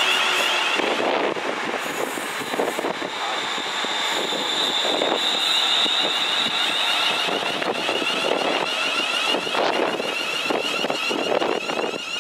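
ScotRail electric multiple unit running past along the platform and away, with rough, uneven wheel-on-rail noise and a steady high-pitched whine. The rumble eases slightly near the end as the last carriage clears.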